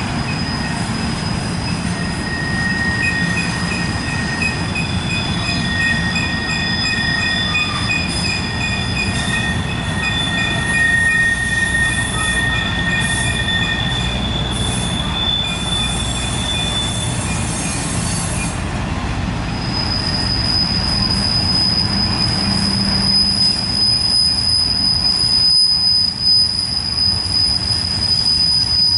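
Steel wheels of a passing intermodal freight train squealing against the rail on a tight curve, several steady high-pitched squeals overlapping and coming and going over the low rumble of the rolling cars.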